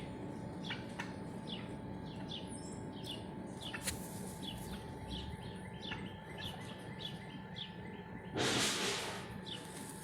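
Birds chirping over and over in short, high calls, over a steady outdoor background. About eight and a half seconds in, a brief burst of rustling noise stands out as the loudest sound.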